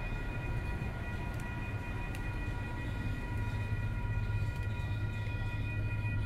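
A train out of view running, with a low rumble and a steady high whine. The rumble grows louder about three seconds in.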